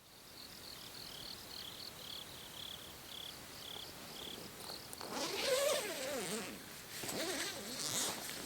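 Crickets chirping in a steady, even rhythm of about two chirps a second. About five seconds in, and again near the end, louder calls with a sliding, falling pitch rise over them.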